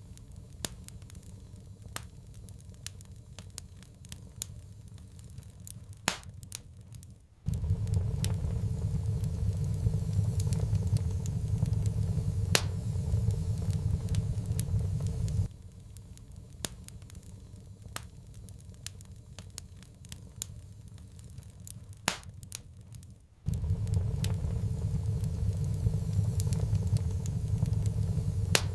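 Wood fire crackling in a fireplace, with scattered sharp pops. A low rumble under it cuts in suddenly about a quarter of the way in, stops just past the middle, and cuts back in near the end.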